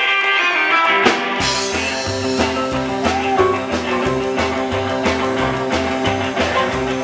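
Live rock and roll band playing without vocals. Electric guitar notes ring until about a second in, then the drums and bass kick in with a steady, even beat.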